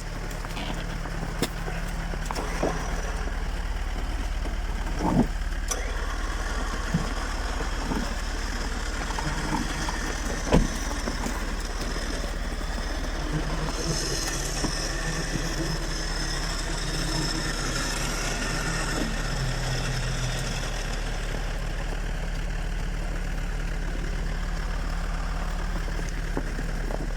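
Tow truck's engine running steadily at idle, with a few sharp knocks, the loudest about ten seconds in.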